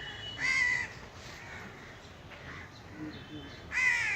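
A bird giving two loud, harsh caws, one about half a second in and another near the end.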